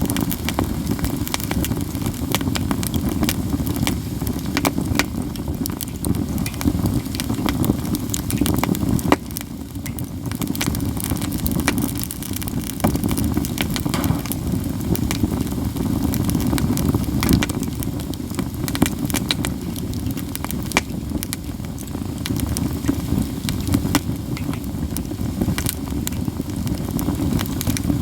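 Katsura-wood campfire burning, with constant crackling and frequent sharp pops over a steady low rush.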